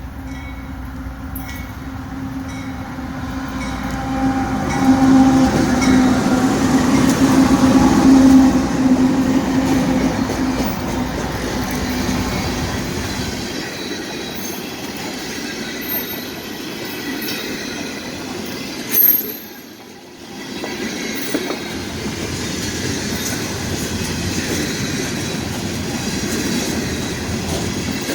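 A diesel train passing. The locomotive's steady drone builds to its loudest in the first ten seconds or so, then the cars roll by with continuous wheel noise and brief high-pitched wheel squeals.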